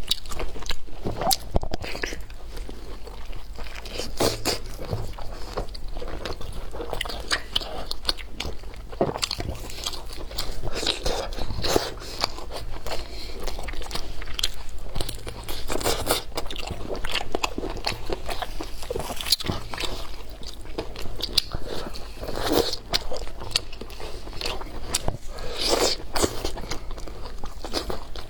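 A person biting and chewing food, with irregular crunchy bites all through.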